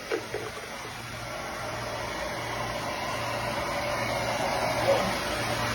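Hair dryers running: a steady rush of air over a low motor hum, growing gradually louder.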